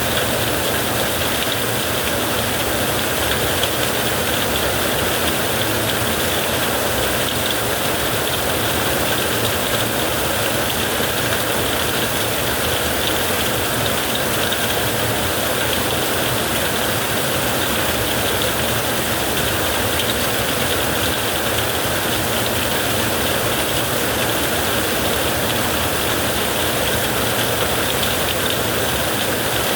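Heavy rain falling steadily on a tent, an even hiss with a low rumble underneath and no single loud strike.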